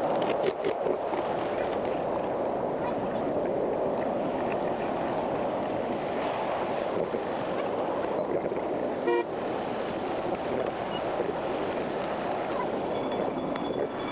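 A 1/8th-scale ride-on miniature train running along its track with a steady rolling noise. A short toot sounds about nine seconds in, and a thin high tone sets in near the end.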